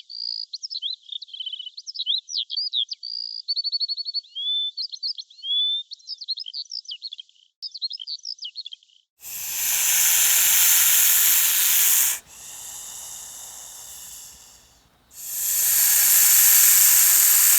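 A small bird singing a quick, varied song of high chirps and trills, then loud hissing that runs for about three seconds, drops quieter, and swells loud again near the end.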